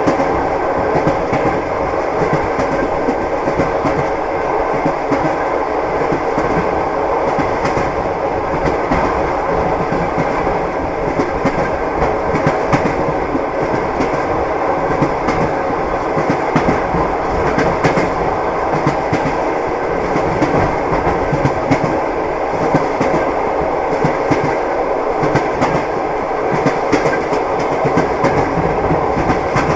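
Moving passenger train heard from inside the carriage: a steady rumbling ride with the wheels clicking over rail joints again and again.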